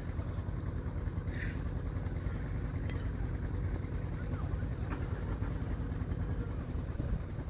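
Strong wind buffeting the camera microphone: a steady low rumble, with a few faint short sounds from the field.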